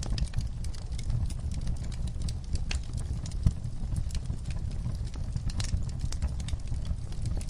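Wood fire crackling in a fireplace: irregular pops and snaps over a low, steady rumble of flames, with one sharper pop about three and a half seconds in.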